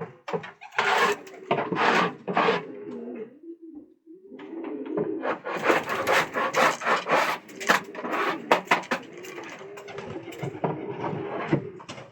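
Pigeons cooing in a loft, several low wavering coos overlapping, with repeated bursts of scratchy rustling. The noise is densest in the middle of the clip, after a brief lull about four seconds in.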